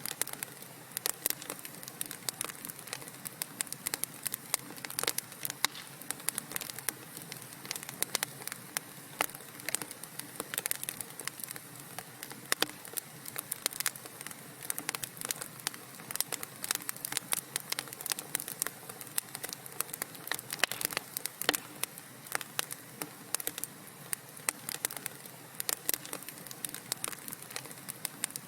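Wood fire crackling in a fireplace: an irregular, dense run of sharp pops and snaps, several a second, over a soft steady hiss.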